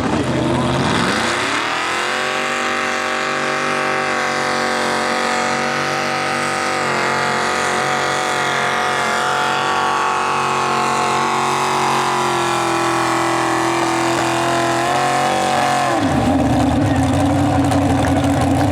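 Mini rod pulling tractor's engine revving up hard within the first two seconds and held at high rpm under load through the pull, then dropping suddenly to a low, steady run near the end.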